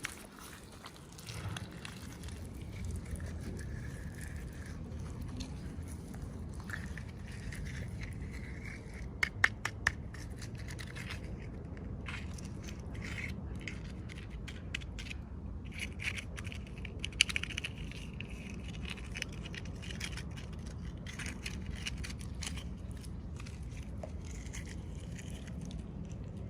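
Toy packaging being handled during an unboxing: scraping and crackling of plastic and cardboard. Sharp clicks come about nine to ten seconds in and again around seventeen seconds, over a steady low rumble.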